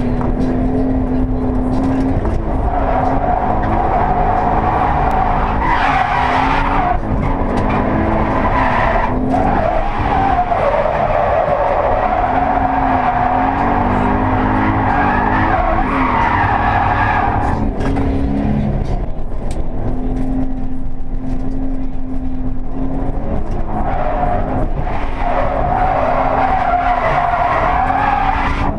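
Toyota 86's stock 2.0-litre flat-four engine revving hard, its pitch climbing and dropping again and again through the corners, as the tyres squeal in several long slides. Heard from inside the cabin over a steady low rumble of road and wind noise.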